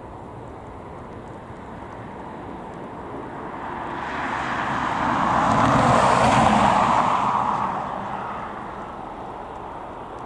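A vehicle passing by: a steady whooshing noise that swells over a few seconds, peaks just past the middle and fades away again.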